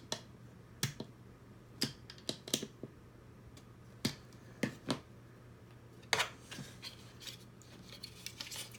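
Small hard plastic robot-kit parts being handled: irregular sharp clicks and taps, a dozen or so, with a quicker run of small clicks near the end, over a faint steady hum.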